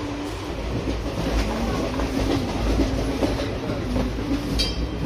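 Passenger train running, heard from inside the coach: a steady low rumble with a few light clicks.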